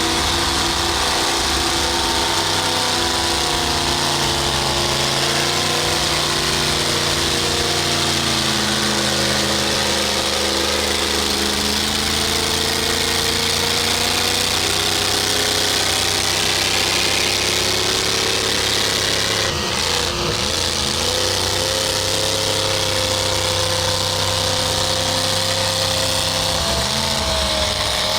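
Off-road truck engine running and revving, its pitch rising and falling slowly over several seconds, with a short break about twenty seconds in.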